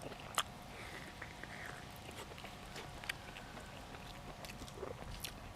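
Close-up eating sounds: chewing and gnawing on oxtail, with a few sharp clicks, the loudest about half a second in.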